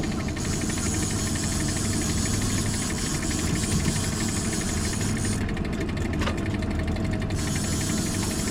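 Boat engine running steadily under way: an even, low hum.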